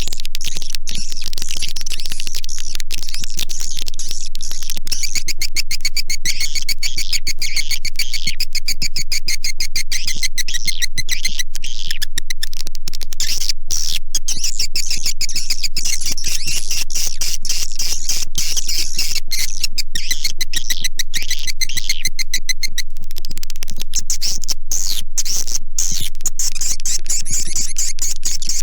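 A dense, unbroken twittering of many swiftlets: rapid high chirps and clicks crowding one another at an even, loud level. It is a swiftlet call recording, the kind played from a swiftlet house to lure the birds in to roost and nest.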